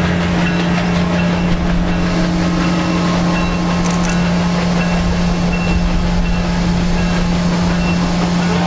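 Passenger train approaching in the distance, heard as a rumble, with a loud steady low hum over it.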